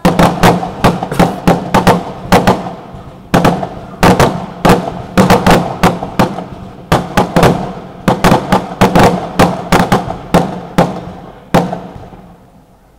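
Fireworks going off in rapid volleys of sharp bangs, several a second, in clusters with short lulls between them, the bangs thinning out and fading near the end.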